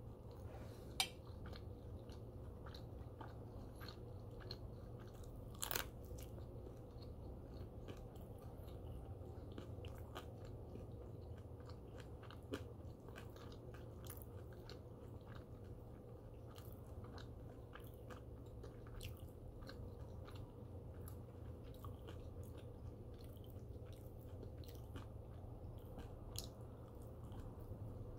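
Close-miked chewing and crunching of crispy turkey bacon: a steady run of small crackles and mouth clicks, with a few louder sharp clicks. A steady low hum sits underneath.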